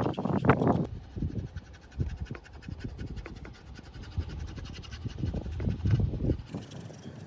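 Wind buffeting the microphone in uneven gusts, strongest in the first second and again around the sixth.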